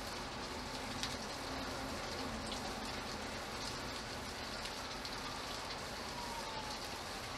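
Steady rain falling, with the odd louder single drop strike standing out.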